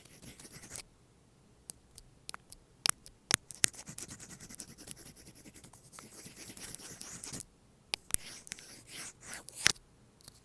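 Apple Pencil scratching and sliding over an AirPods case, with a few sharp taps in between. The longest stretch of scratching falls in the middle, and there is another near the end.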